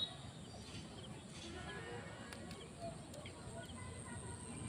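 Faint, scattered short bird chirps over a steady background hiss. There is no clear rooster crow.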